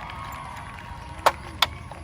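Two short, sharp clicks about a third of a second apart near the end, over a faint steady hum.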